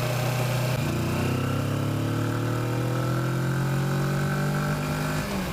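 Kawasaki Versys motorcycle engine accelerating under way. Its pitch steps up about a second in, climbs steadily, then drops near the end, over a steady rush of wind.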